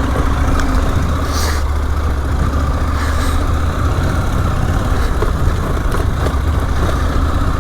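KTM motorcycle running steadily under way: an even engine drone with road and wind noise, no change in revs.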